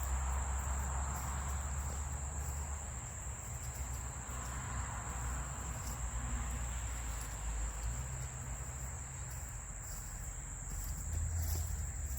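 Crickets giving a steady high trill, with a low rumble underneath.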